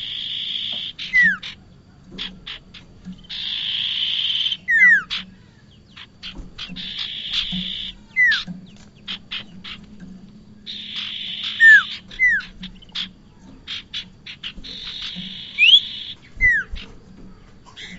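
Prenjak (prinia) calls used as a bird lure. A buzzy, rattling trill alternates with short downward-sliding whistles and quick series of sharp chipping notes, the phrase repeating about every three and a half to four seconds.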